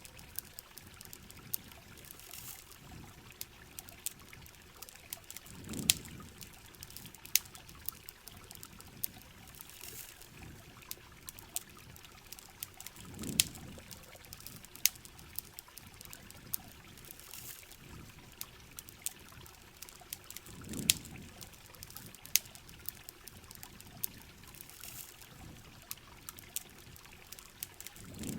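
Rain with water trickling and pouring, an even hiss, dotted with sharp crackles from a campfire. A low swell of water comes back regularly, about every seven and a half seconds.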